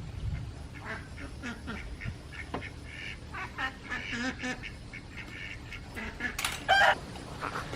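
A flock of black Cayuga ducks quacking in short, scattered calls, with two louder, sharper sounds about six and a half seconds in.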